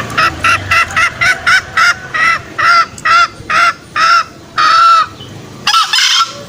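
Green junglefowl calling: a run of about fifteen short, loud notes that start fast, then slow and lengthen, ending in one long drawn note, followed by a brief rougher call near the end.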